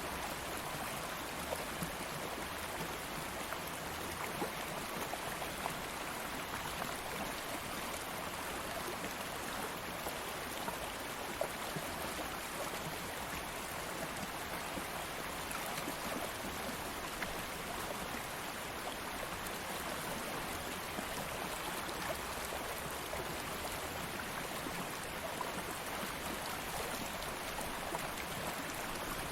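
Steady rushing and babbling of a flowing stream, with small splashes and drips scattered through it.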